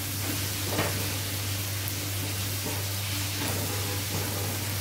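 Onion-tomato masala sizzling in a nonstick frying pan while being stirred with a wooden spatula, a steady hiss with a few faint scrapes, over a constant low hum.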